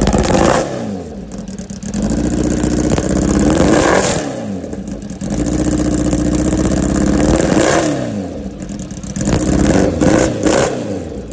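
Kawasaki Ninja H2's supercharged four-cylinder engine revving hard, the pitch climbing and dropping about four times.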